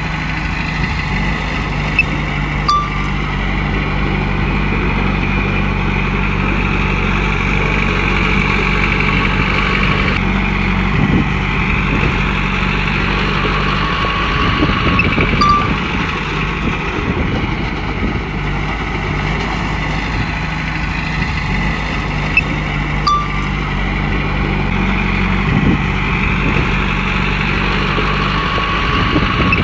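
Komatsu bulldozer's diesel engine running steadily under work, with a high whine that swells and fades every several seconds, and a few short single beeps.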